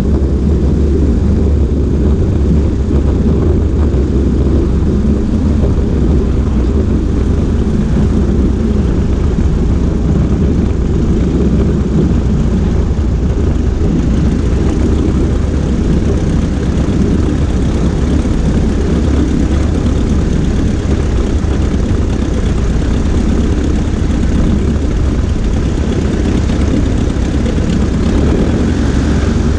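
Cessna 140A's single piston engine and propeller running steadily, picked up by a wing-mounted camera with heavy low wind rumble on the microphone.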